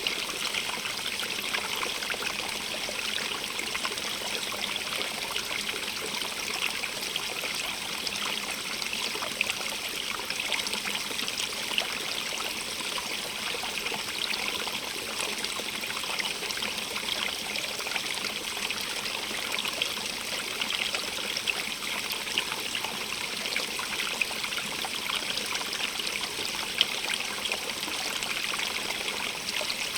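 Stream running steadily over rocks, a continuous trickling and splashing rush of water with small splashes flickering through it.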